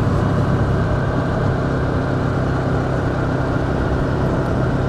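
Ducati Scrambler Urban Enduro's air-cooled L-twin engine running steadily as the motorcycle rides along.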